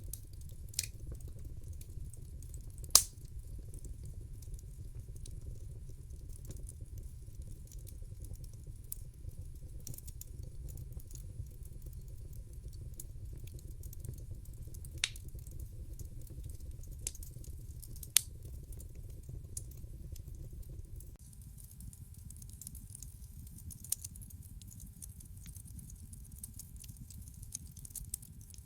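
Wood fire crackling in a fireplace: a steady low rumble of the burning with scattered sharp pops and crackles. The loudest pop comes about three seconds in, with a few more spread through the rest.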